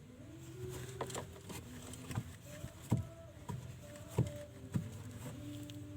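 Irregular clicks and knocks, about eight of them, from handling the parts of a washing machine's drain valve while it is cleaned of dirt. Faint held tones come and go in the background.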